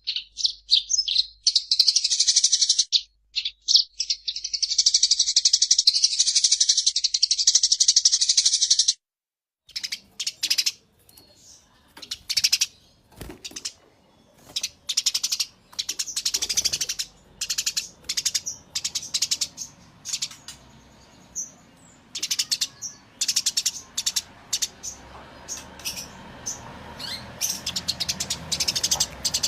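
Eurasian tree sparrows chirping in agitated, fighting calls: a dense, unbroken rolling run of high chirps for about nine seconds, then after a short break, separate sharp chirps in quick clusters over a faint background hiss.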